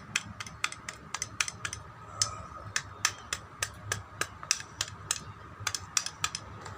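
Light, irregular clicks and taps of small metal parts and tools being handled, about two or three a second, over a faint steady hum.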